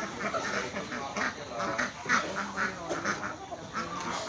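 Several ducks quacking, short calls overlapping in a busy, continuous chatter.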